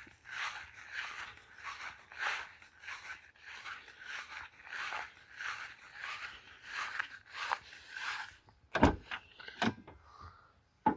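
Footsteps at a walking pace, about two a second, then a sharp click and a couple of lighter knocks near the end from the pickup's door being handled.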